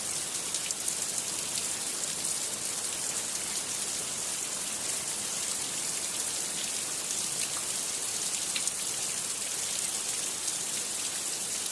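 Steady rain falling, a constant hiss with many small drop ticks on a hard surface.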